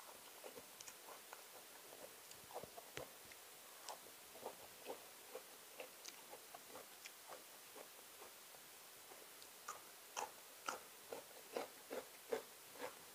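A person biting and chewing crunchy raw vegetable, a run of faint short crunches that come closer together and louder in the last few seconds.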